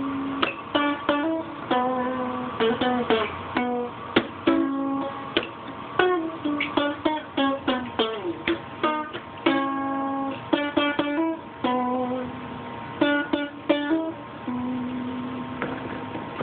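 Solo guitar playing an instrumental tune, a run of picked notes and chords.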